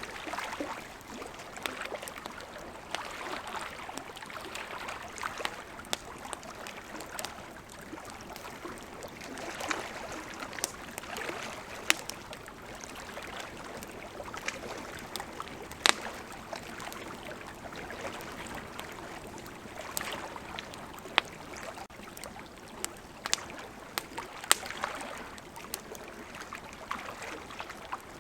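Wood campfire crackling, with scattered sharp pops, over the steady sound of running river water.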